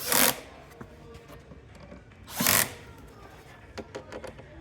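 Power screwdriver driving screws into the drawer panels in two short bursts, one at the start and one about two and a half seconds in, with a few light clicks near the end.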